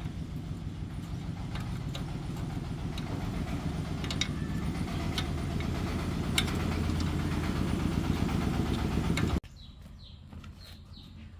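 Small gasoline farm-machinery engine running steadily, getting gradually louder, then cutting off abruptly about nine seconds in. Faint bird chirps follow.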